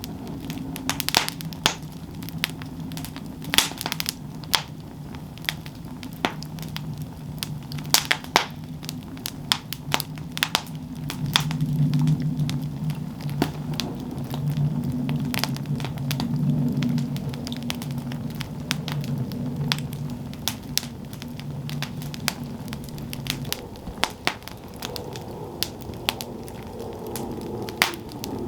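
Campfire burning: wood crackling with frequent sharp, irregular pops over a steady low rumble. The rumble swells for several seconds about a third of the way in.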